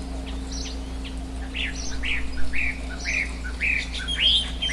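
A bird calling: a series of short, arched whistled notes, about two a second, starting about a second and a half in and growing louder and slightly faster, over a steady low hum.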